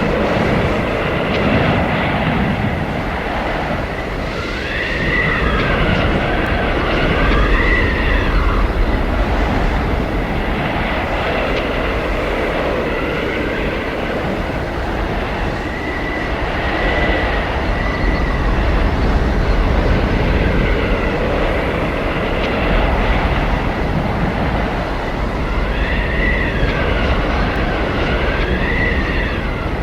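Arctic blizzard wind blowing in a steady, heavy rush with a low rumble. Howling, whistling tones rise and fall in several gusts over it.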